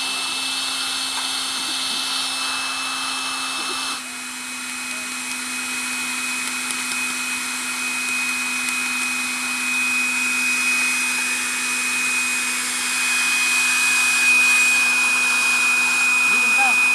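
A motor running steadily at a constant pitch, with a low hum and a high whine. It dips slightly about four seconds in, then slowly grows louder.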